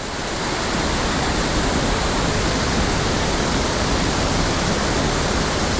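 Rushing water of a small mountain stream tumbling over rocks: a steady, loud rush that builds over about the first second and then holds even.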